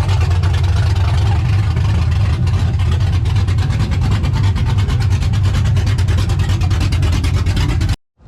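LS V8 engine in a 1995 Chevrolet pickup running through open headers with no exhaust fitted, a loud, steady, rapid-pulsing drone while cruising. It cuts off suddenly near the end.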